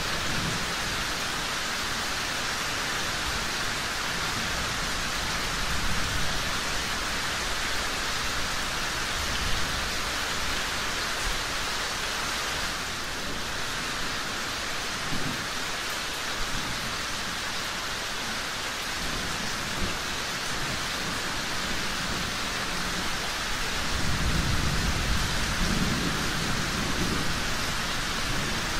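Steady rain falling, with low rolls of thunder swelling about six seconds in, briefly around the middle, and longer near the end.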